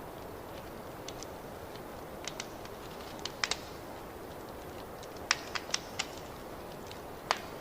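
Fireplace wood fire crackling: a steady low rush with scattered sharp pops and snaps, the loudest a cluster about three and a half seconds in, a run of pops past the five-second mark and a single snap near the end.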